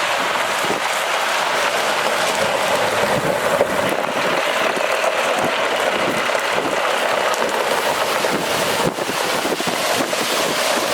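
Steady rushing hiss of water spraying from a water truck's PTO-driven spray bar and spray heads.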